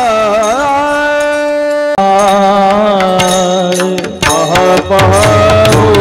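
Kirtan devotional music: a singer's voice glides down and holds one long note, then a new note starts about two seconds in. Mridang and tabla strokes come in about halfway through.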